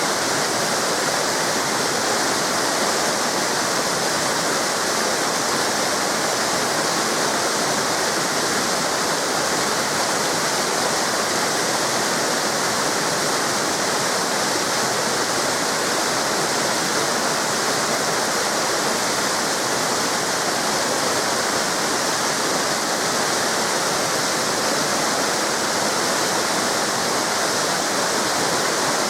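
Waterfall cascades pouring in a steady, unbroken rush of water.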